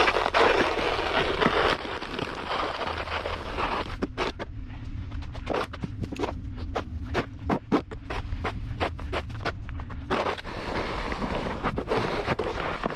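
Scraping and crunching on a snowy walkway being salted: a scraping hiss at first and again near the end, with a run of crisp crunches, about two or three a second, in the middle.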